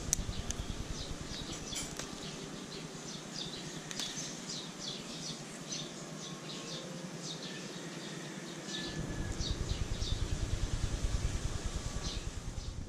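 Small birds chirping, many short high chirps in quick irregular succession, over a low wind rumble on the microphone that drops away for several seconds in the middle.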